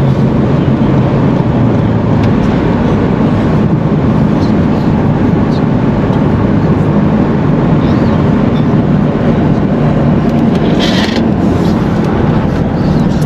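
Steady engine and road noise of a Lincoln Navigator SUV driving along, a constant low rumble with no change in pace.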